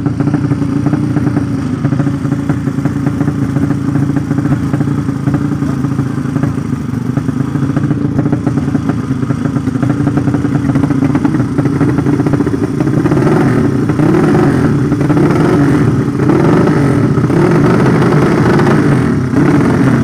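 200 cc drag-racing motorcycle engine running steadily, its revs rising and falling from about two-thirds of the way through.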